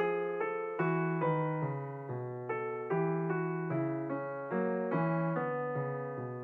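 Background piano music: a slow, gentle melody of single notes over sustained bass notes.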